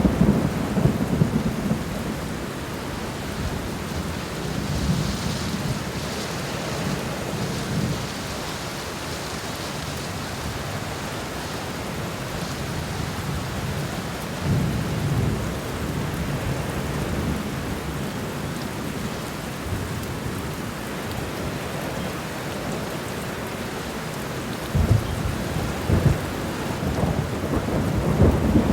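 Steady rain falling on a garden floor, an even hiss, with low rumbles swelling and fading several times: near the start, around a fifth of the way in, midway, and near the end.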